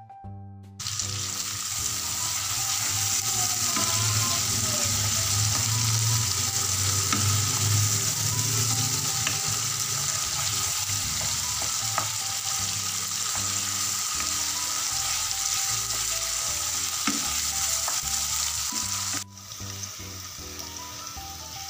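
Chili sambal sizzling in a frying pan while it is stirred with a wooden spoon, with a few light scrapes. The sizzle starts abruptly about a second in and drops to a fainter sizzle near the end. Soft background music plays underneath.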